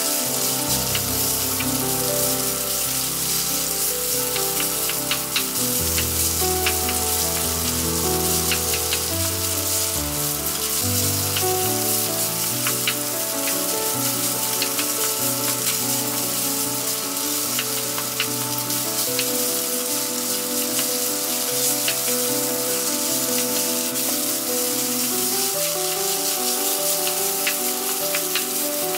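Rice and tomato frying in a hot stone-coated frying pan: a steady sizzle with small scrapes and taps from the spatula stirring it. Background music with slow held notes plays underneath.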